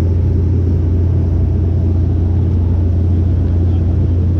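Boat engine running steadily: a loud, even low drone with rushing noise over it.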